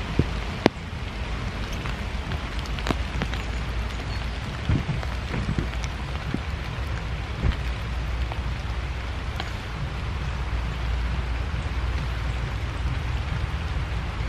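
Steady rain falling, with a few sharp ticks of single drops striking.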